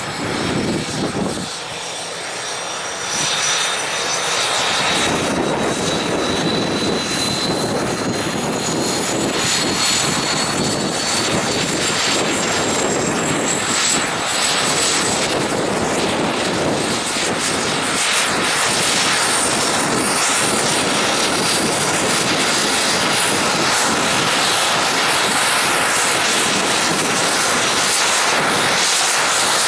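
Shorts Tucano T1 turboprop running: the Garrett TPE331 engine and propeller give a loud, continuous noise with a high-pitched whine whose tones slowly rise in pitch. The sound gets louder about three seconds in and then holds steady.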